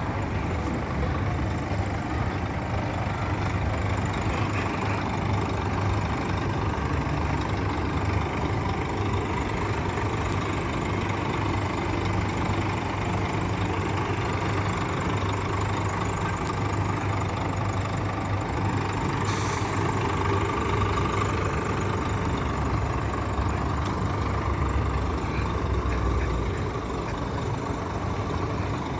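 Scania K440 coach's diesel engine idling steadily, with a short hiss of air about two-thirds of the way through.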